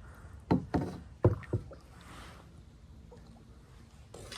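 Paddling a kayak: four short knocks in the first second and a half, then a soft swish of water around two seconds in.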